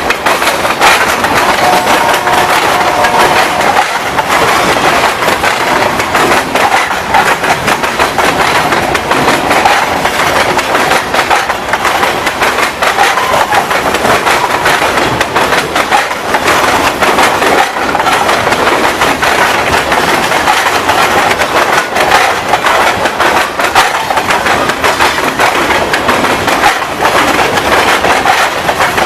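Long freight train of loaded salt hopper cars rolling past close by, steel wheels clacking steadily over the rail joints. The locomotive horn's last note fades away in the first few seconds.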